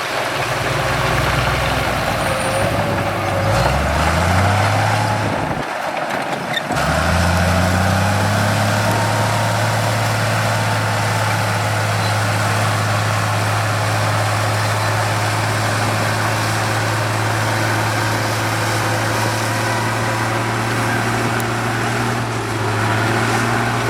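Heavy construction machine's diesel engine running. Its pitch rises a few seconds in and breaks off briefly near six seconds, then rises again and holds steady for the rest.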